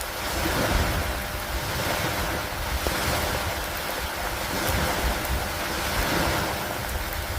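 Steady rain falling on a wooden dock by the lake, an even hiss with a low wind rumble beneath and a few faint drop ticks.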